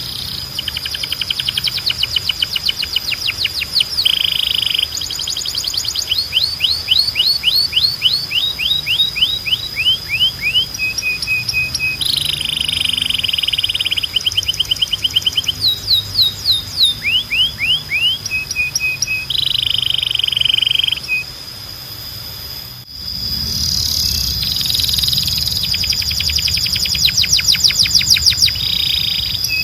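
Domestic canary singing a long run of rapid trills: series of repeated sweeping notes several per second alternating with buzzy rolled phrases, over a steady high tone. The song drops away briefly a little past twenty seconds, then another stretch of trills starts over a low hum.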